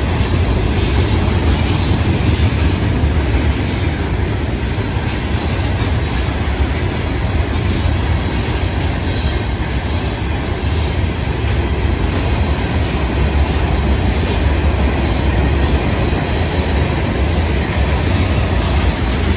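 Freight cars of a Florida East Coast Railway train rolling past close by: a steady, loud rumble of steel wheels on the rails, with faint clicks over the rail joints.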